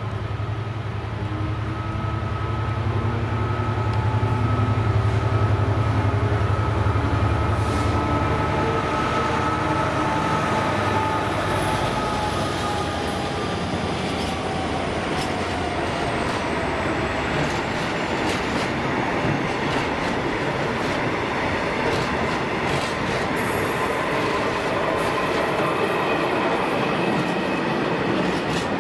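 A Class 66 diesel locomotive passes at speed, its engine hum and whine dropping in pitch as it goes by about ten seconds in. A long rake of empty hooded steel-coil wagons follows, rumbling and clattering over the rail joints.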